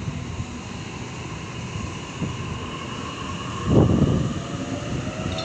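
Double-deck electric suburban train pulling out of the platform: a steady rumble of the passing cars and wheels, with a faint motor whine that rises slightly in pitch as it gathers speed. A louder burst of rumble comes about four seconds in.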